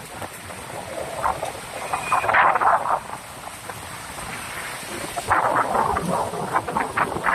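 Gusty storm wind buffeting the microphone, with rain falling. The gusts swell about two seconds in and again from about five seconds in, easing between.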